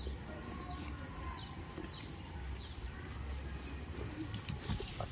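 A bird chirping repeatedly in short notes that fall in pitch, about two a second, stopping a little over halfway through, over a steady low rumble.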